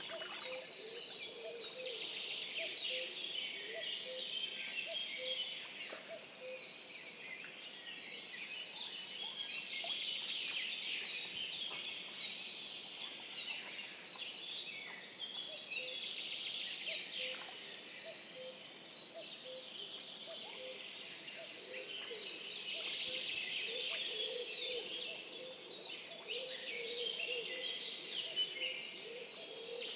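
Songbirds singing in a forest chorus, one bird's high, rapid song phrases coming loudest in bursts of a few seconds about every ten seconds, with a faint low call repeating steadily underneath.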